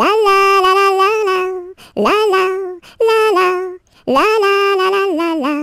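A single high voice singing a wordless melody on 'la', in four phrases with short breaks between them and long held notes.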